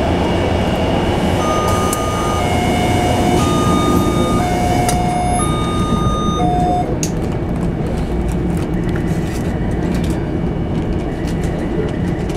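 Passenger train running with a steady low rumble. An electronic chime alternates between a lower and a higher note, about one note a second, for about five seconds. Then a run of quick clicks from the wheels and track comes in.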